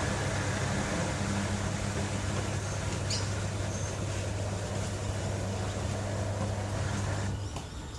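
LG TurboDrum top-load washing machine running mid-cycle: a steady electric motor or pump hum under water rushing and churning. It cuts out about seven seconds in.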